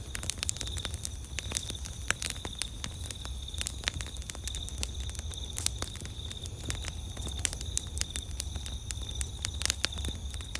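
Campfire crackling: burning wood giving off irregular sharp snaps and pops, several a second, over a low rumble. Behind it runs a steady, high-pitched pulsing trill of night insects.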